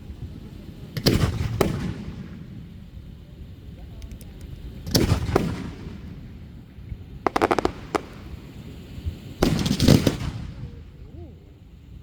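Aerial fireworks shells bursting: four separate volleys a few seconds apart, each a sharp bang with a rumbling tail. About seven seconds in comes a quick run of sharp crackling pops.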